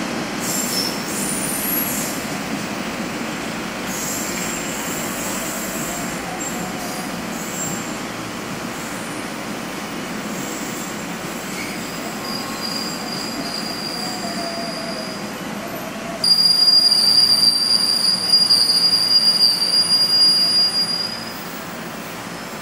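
Train wheels squealing on the rails as a train moves through the station, over a steady rolling rumble. About sixteen seconds in, a loud, high-pitched squeal sets in and holds for some five seconds before dropping away.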